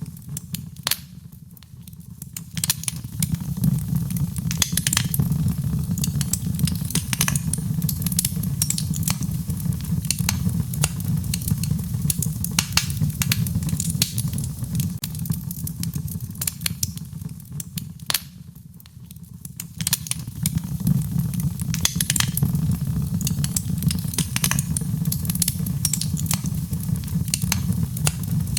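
Fireplace wood fire crackling, with frequent sharp pops and snaps over a steady low rumble, mixed with rain. The whole sound dips briefly twice, about a second in and again past the middle.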